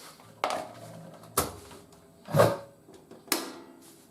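Hoover A3060 washing machine being unloaded: its door is unlatched and opened, and the load is handled. There are four short clicks and clunks about a second apart, the loudest near the middle.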